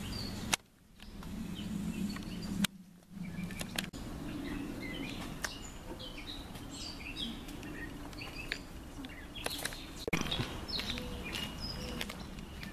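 Small birds chirping over a low outdoor rumble, with a few sharp clicks and knocks scattered through. The sound cuts out briefly twice near the start, about half a second in and again just under three seconds in.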